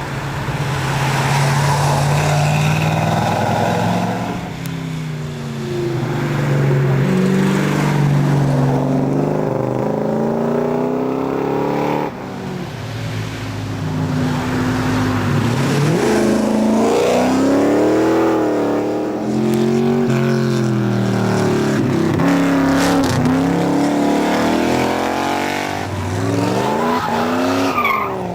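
V8 race car engine running hard, its pitch rising and falling again and again through gear changes and throttle lifts.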